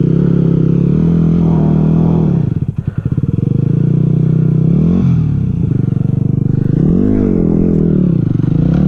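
Yamaha WR250R's single-cylinder four-stroke engine idling, with three brief throttle blips that rise and fall in pitch.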